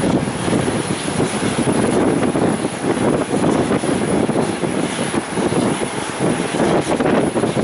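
Aircraft engines rumbling as a plane passes, mixed with gusty wind buffeting the microphone; the noise is rough and uneven.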